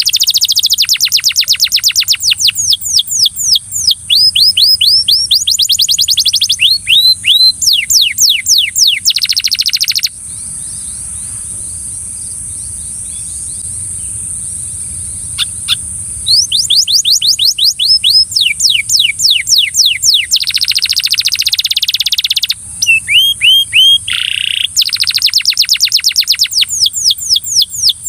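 Domestic canary singing long rapid trills of quick, repeated falling whistled notes, phrase after phrase, stopping for about six seconds a third of the way in before starting again. A steady high-pitched whine runs underneath throughout.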